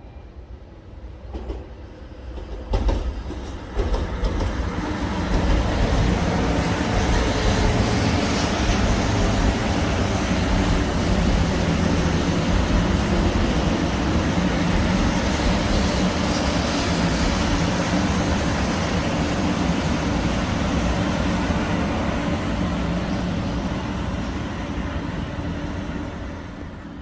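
Hello Kitty Shinkansen, a 500 series bullet train, running with a steady loud rumble. The sound builds over the first few seconds with a few sharp knocks, holds, and fades away near the end.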